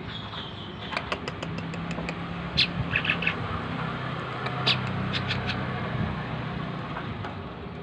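Low steady hum of a motor vehicle engine, fading out near the end, with a scatter of short sharp bird chirps and clicks over it.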